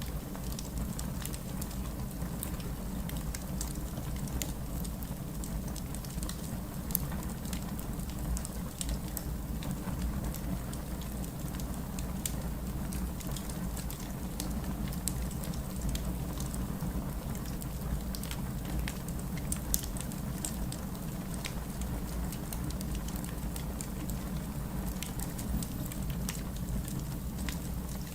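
Steady heavy rain with a low rumble underneath, and scattered sharp crackles and pops from a wood fire in a fireplace.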